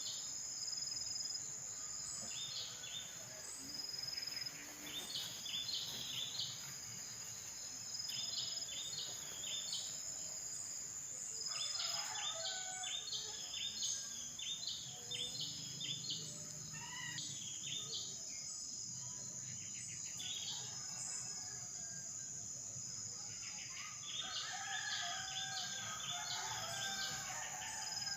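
A steady high insect drone, with clusters of quick bird chirps recurring every few seconds.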